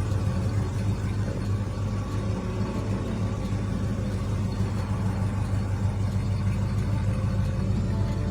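Oldsmobile Rocket 350 V8 engine of a 1972 Custom Cruiser wagon idling steadily with a low, even rumble.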